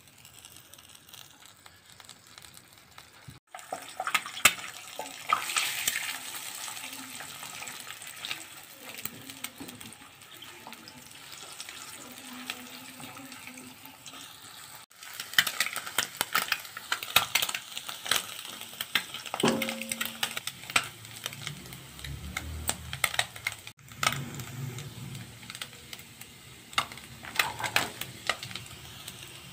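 Egg sizzling in hot oil in a nonstick kadai and being scrambled with a silicone spatula, then diced carrot frying as it is stirred: a steady hiss dotted with many sharp spatters and spatula scrapes. The sound breaks off abruptly a few times at edits.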